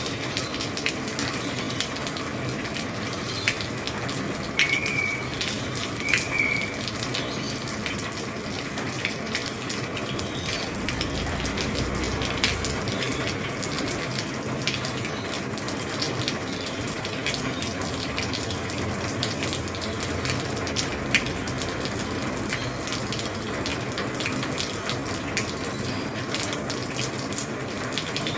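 Heavy rain falling on an old roof: a steady hiss of rain with many separate drops ticking and tapping on the roof.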